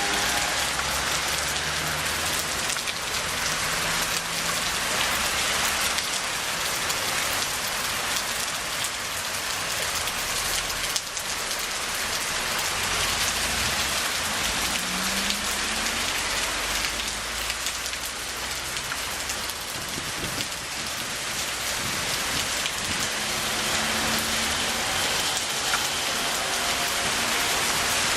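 Heavy rain falling steadily, with a low rumble underneath for a few seconds midway.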